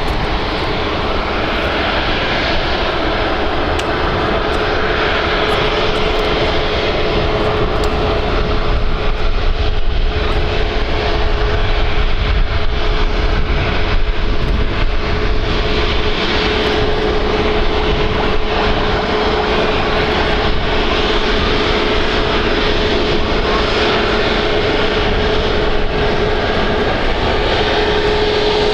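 Jet engines of an Airbus A321XLR airliner running steadily, a constant rush of engine noise with a steady whine held through it.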